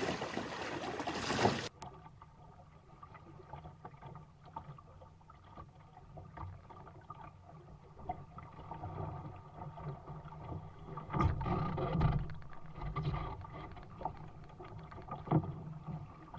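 Sailing dinghy under way: wind and water rush loudly over the microphone, cutting off abruptly under two seconds in. Then a quieter, muffled low rumble of water along the hull follows, with scattered knocks, heaviest around eleven to twelve seconds in and once more near the end.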